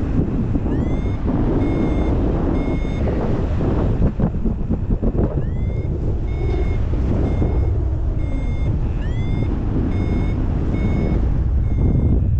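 Paragliding variometer beeping, signalling the glider is climbing in lift: three runs of short, evenly spaced high beeps, each starting with a quick rising chirp. Under it, steady wind rush on the microphone.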